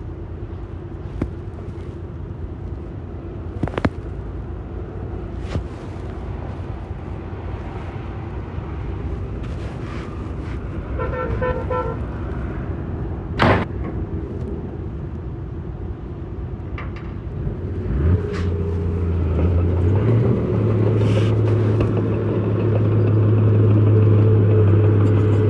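Heavy diesel construction machinery running steadily, with a few knocks, a short pulsing horn-like toot about eleven seconds in and a sharp bang about two seconds later. From about eighteen seconds in the engine note gets much louder and deeper, as if a machine is working under load close by.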